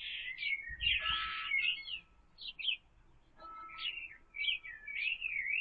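Small garden birds chirping and calling in short, repeated bursts of high notes, with a pause in the middle.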